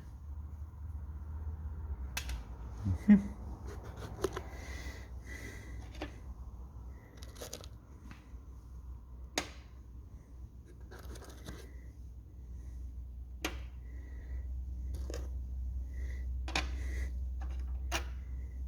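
Small metal valve-train parts (valve springs, retainers, collets) being handled and set down: scattered light clicks and clinks over a steady low hum.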